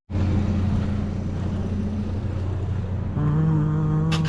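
Truck engine running, a steady low hum, with a steady pitched drone joining about three seconds in and lasting about a second.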